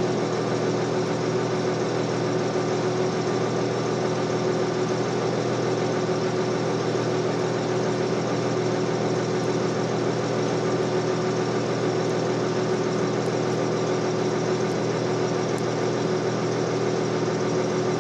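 Heavy diesel engine running steadily at a constant idle, with no revving or change in pitch.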